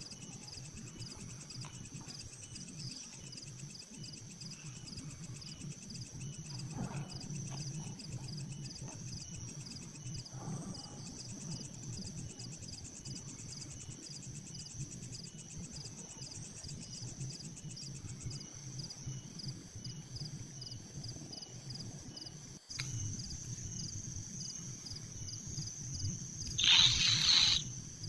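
Steady trilling of insects over a low rumble; near the end a loud, harsh call about a second long, the raspy begging of kingfisher chicks in their nest burrow.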